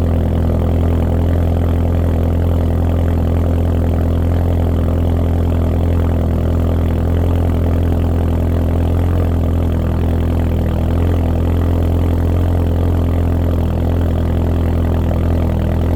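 Volkswagen Mk7 GTI's turbocharged four-cylinder idling steadily after a cold start, heard through an MBRP cat-back exhaust with a catted CTS downpipe and a 1142 ultra-quiet resonator. It holds an even, low exhaust drone, with no revs.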